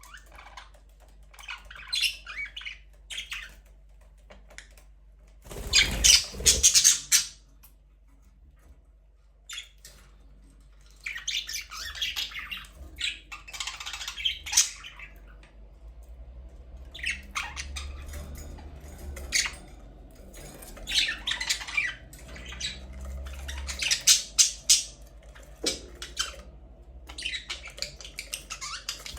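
Budgerigars chattering and squawking in short bursts with brief pauses, the loudest burst about six seconds in.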